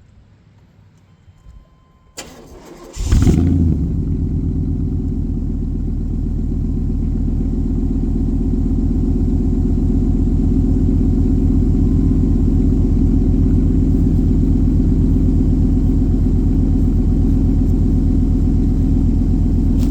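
1997 Chevy Suburban's 350 V8 with Magnaflow Magnapack mufflers cold-starting after sitting a while: the starter cranks about two seconds in, the engine catches about a second later with a brief flare, then settles into a steady idle through the exhaust.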